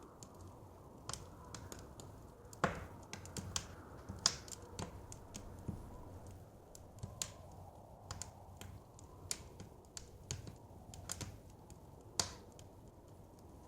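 Wood fire crackling in a fireplace: irregular sharp pops and snaps, a few louder ones about 2.5, 4 and 12 seconds in, over a steady low rumble of flames and soft wind.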